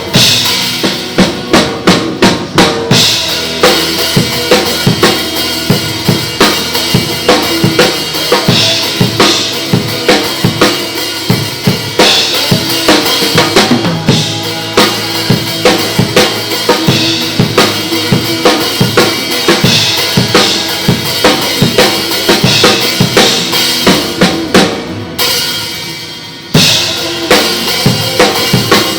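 Acoustic drum kit played live over backing music: steady bass drum and snare hits with cymbals. Near the end the playing eases off for a couple of seconds, then the full kit comes back in suddenly.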